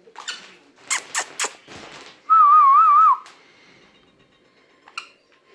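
Sun conure giving a few short harsh calls, then a loud whistle that warbles evenly up and down for under a second, about halfway through.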